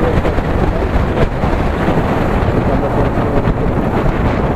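Wind buffeting the microphone on a moving motorcycle: a loud, steady, dense rush with low rumble, with road and engine noise buried beneath it.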